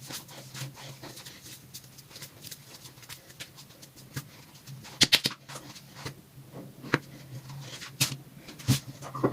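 A few sharp knocks and clicks, the loudest about five seconds in, over a low steady hum.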